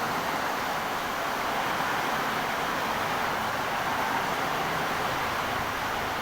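Heavy rain pouring down in strong wind: a dense, steady hiss with no let-up.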